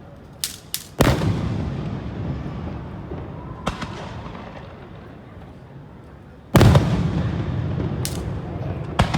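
Aerial firework shells bursting: two quick sharp pops, then heavy booms about a second in and again past six seconds, each followed by a long rolling rumble that fades. Single lighter cracks fall between them.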